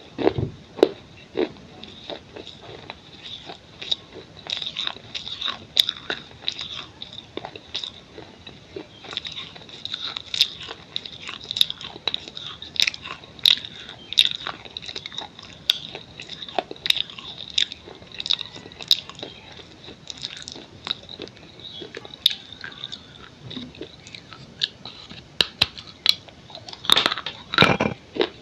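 A person biting and chewing pieces of baked clay pot bowl: many crisp crunches in quick succession, louder near the end.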